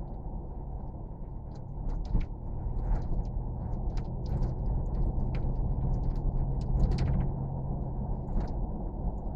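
Inside a moving car: a steady low engine and road rumble with a hum, and many small creaks and rattles from the cabin.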